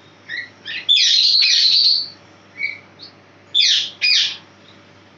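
A small bird calling with short, high chirps in irregular bursts: a longer run of calls about a second in, and two loud calls near the end.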